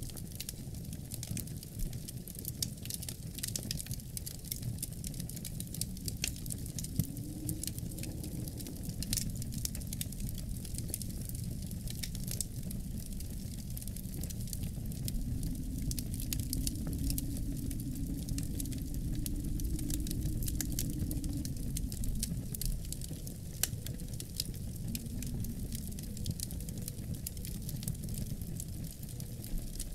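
Wood fire crackling in a fireplace with rapid, irregular pops over a low rumble, while snowstorm wind moans outside. The wind swells into a louder gust around the middle and eases again near the end.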